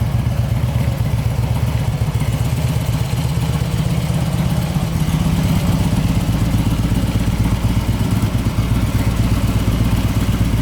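Harley-Davidson Road King Custom's V-twin engine running at a steady idle, a low pulsing beat.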